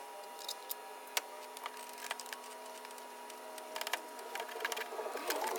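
Scattered light clicks and taps of engine parts being handled and fitted back into place, more frequent near the end, over a steady faint hum.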